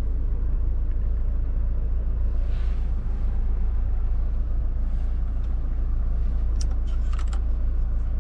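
Steady low rumble of the Audi Q3's 2.0 TFSI turbocharged four-cylinder petrol engine running, heard inside the cabin. Near the end comes a quick cluster of sharp clicks from dashboard buttons being pressed.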